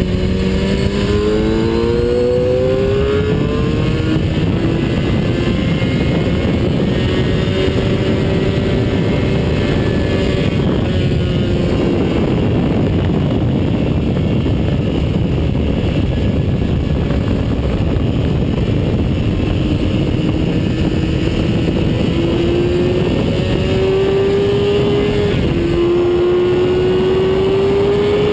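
Onboard sound of a track-day vehicle at speed: the engine's revs climb, fall off and climb again in steps as it shifts gears, over a loud steady rush of wind.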